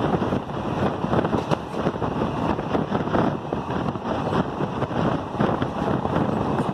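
A moving train running, heard from on board as a continuous rumble and rattle, with wind on the microphone.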